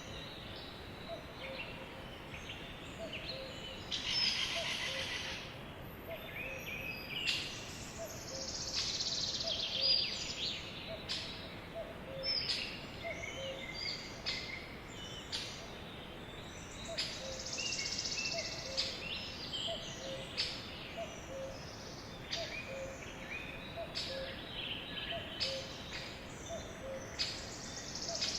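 Sparrows chirping and twittering in many short, overlapping calls over a steady outdoor background, with a faint low note repeating about once a second underneath.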